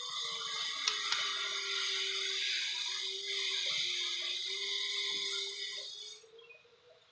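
Young domestic canary singing a continuous high, buzzy twittering trill, the early subsong of an untrained bird starting to find its voice; it fades out near the end. Two short clicks about a second in.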